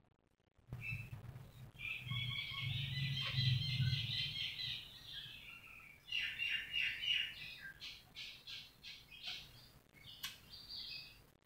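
Small birds chirping in quick runs of short repeated notes, with a low hum underneath for the first few seconds.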